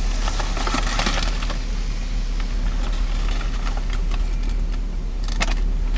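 Steady low rumble in a parked car's cabin with the engine idling, with a few light crackles of something being handled about a second in and again near the end.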